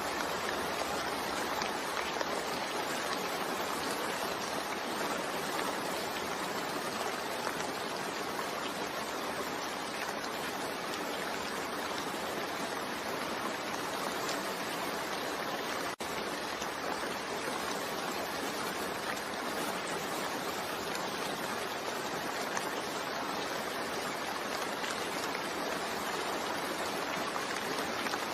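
Steady rain mixed with white noise, an even rushing hiss with no distinct drops standing out. About halfway through, the sound drops out for an instant.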